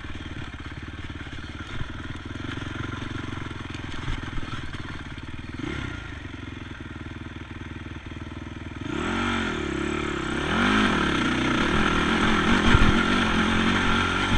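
ATV engine running at low, steady revs, then from about nine seconds in revving up and down repeatedly and getting louder.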